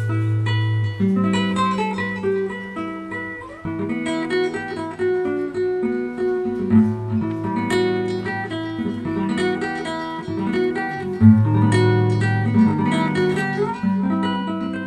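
Background music: acoustic guitar played finger-style, plucked notes and strummed chords over sustained bass notes.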